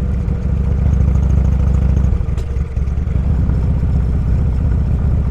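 Motorcycle engine running at riding speed with a steady low rumble. About two and a half seconds in, the engine note dips briefly with a single click, then picks up again.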